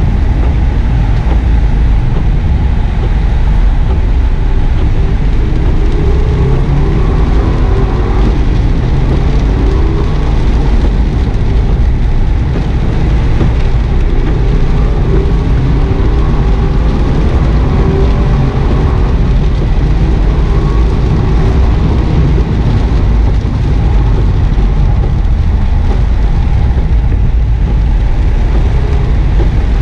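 2009 Subaru WRX S's turbocharged flat-four engine, heard from inside the cabin, rising and falling in pitch as the car accelerates and lifts through the gears. A heavy rumble of tyre and road noise on wet tarmac runs under it.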